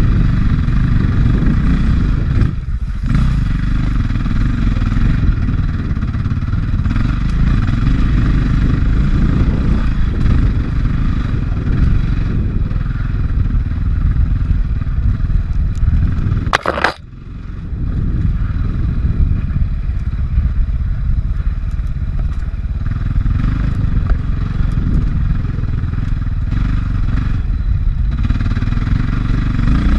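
450 cc four-stroke single-cylinder dirt bike engine running under load on a trail. There is a brief dip about three seconds in, and a sharp knock a little past halfway, after which the engine briefly quiets before picking up again.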